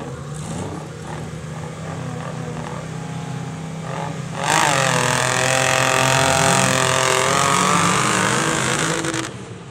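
Drag-racing tractor engine running steadily, then about four and a half seconds in going to full throttle with a sudden jump in loudness. The pitch dips and then climbs through the pull, and the sound cuts off sharply near the end.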